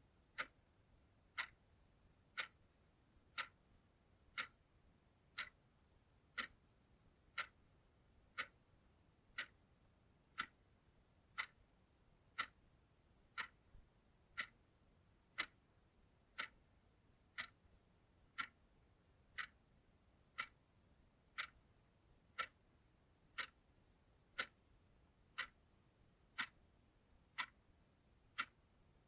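Clock ticking: short, sharp ticks evenly spaced about once a second.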